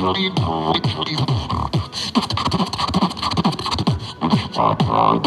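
Beatboxing: mouth-made kick drums with short falling bass tones, snare-like clicks and hissing hi-hat strokes in a busy rhythm, with a warbling pitched vocal sound in the first second.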